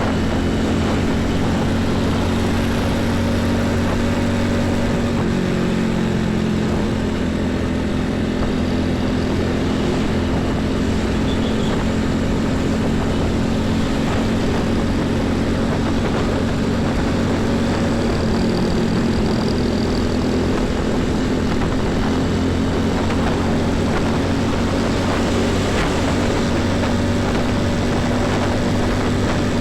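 Heavy diesel truck engine running steadily at close range, its low drone shifting slightly in pitch now and then, over the rush of highway traffic.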